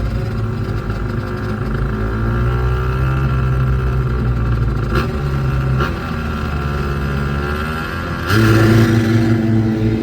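Motor vehicle engines running steadily, with two short sharp clicks around the middle and a louder surge of engine noise about eight seconds in.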